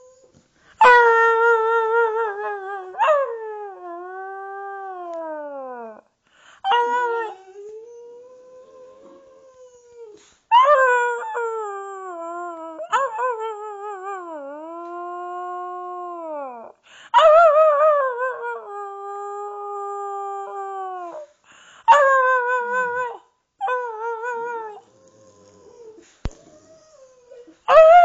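Boxer dog howling: a run of about six long drawn-out howls, most sliding down in pitch as they fade, with short pauses between them and fainter, lower howls in the gaps.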